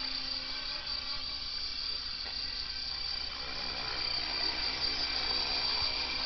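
Small radio-controlled helicopter hovering, its motor and rotors giving a steady high-pitched whine that grows a little louder about four seconds in.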